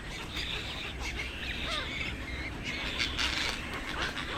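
Many birds calling at once, a busy overlapping chatter of short squawks and calls, over a low steady hum.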